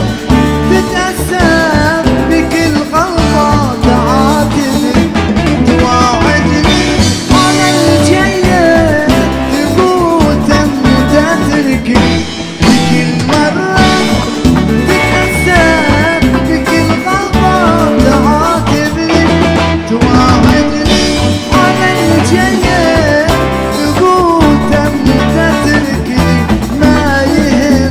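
Live Arabic band music, an instrumental passage: a wavering, ornamented melody over a steady beat and bass.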